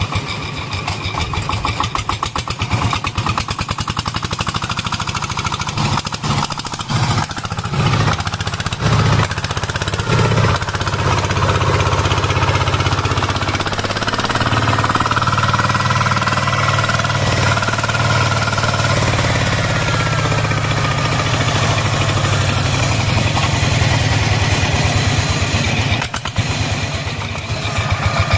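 Single-cylinder diesel engine of a công nông farm truck running with a rapid, even chugging beat. It settles into a steadier, heavier note from about ten seconds in.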